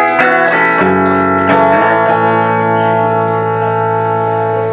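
Guitar playing a few chords, the last left ringing for about three seconds.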